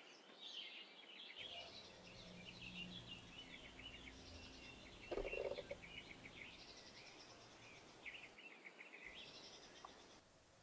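Wild birds calling in quick series of short, high chirps and twitters, faint throughout. About five seconds in there is a brief, louder, lower-pitched sound.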